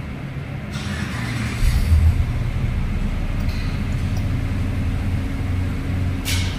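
A car engine running with a steady low drone, with a brief louder surge about two seconds in.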